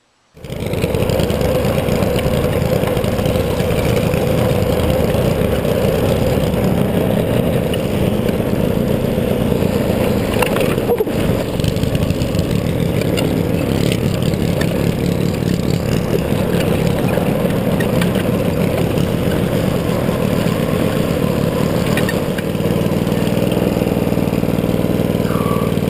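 Small gasoline engine of an off-road ride running steadily under throttle. About 22 seconds in it settles into a steadier, even tone, as if dropping to idle.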